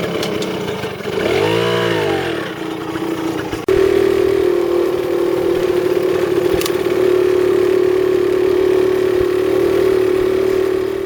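A small 100cc motorbike engine running. It revs up and back down once about a second and a half in. Just before four seconds it jumps abruptly to a louder, steady note and holds it.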